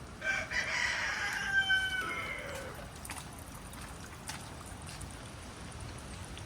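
A rooster crows once, a single call of about two and a half seconds that drops in pitch at the end, over a steady hiss of wind and rain.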